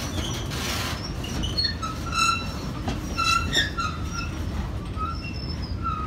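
Railway flatcars rolling slowly past, with a steady low rumble and many short, high-pitched wheel squeals, most frequent in the middle.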